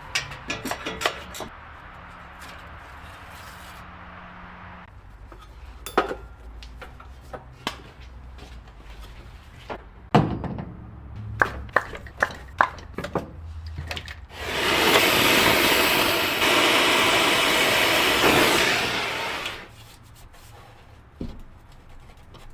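Workshop tool handling: scattered sharp clicks and knocks, then a loud steady hiss lasting about five seconds that cuts off fairly suddenly.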